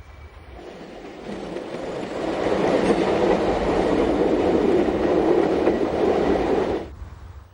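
A train running on the track, growing louder over the first two seconds or so, then cutting off abruptly near the end.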